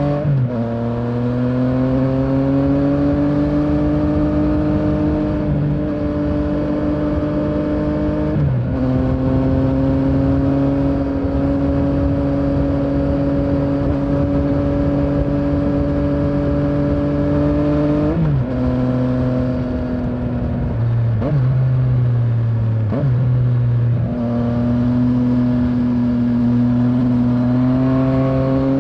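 Yamaha Tracer 900's three-cylinder engine pulling on the move. Its note holds or climbs slowly and drops sharply several times, as at gear changes or throttle closing, then climbs again.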